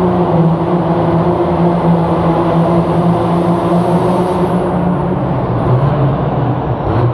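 Engine of a pulling truck or tractor running loud and steady, its pitch easing down a little in the last couple of seconds.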